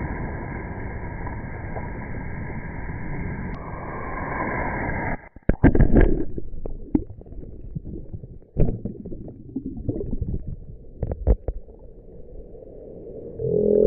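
Ocean surf crashing, a dense steady rush of water, which cuts off abruptly about five seconds in. Muffled, irregular thumps and knocks follow.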